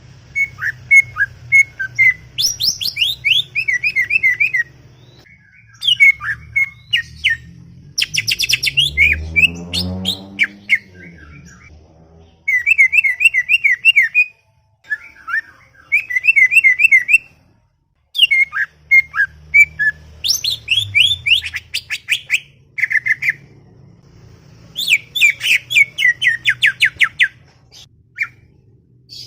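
Cucak ijo (green leafbird) singing in chattering bursts of rapid repeated notes, the phrases a second or three long with short pauses between them.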